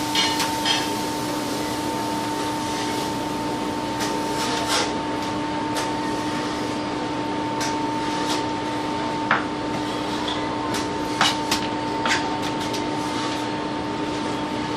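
Knife work on a whole chicken being deboned: scattered short knocks and clicks of the knife and bones against the cutting board, over a steady hum.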